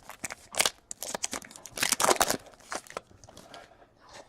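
Trading cards and foil pack wrappers being handled, giving a series of short rustles and crinkles that thin out toward the end.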